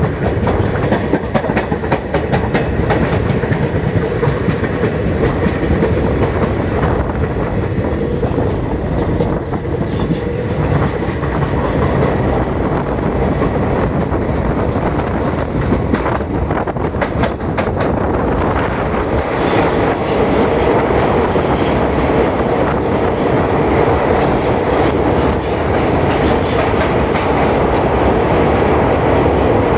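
Moving passenger train heard from on board: steady running noise of the coaches with wheels clicking over rail joints, a little louder in the last third.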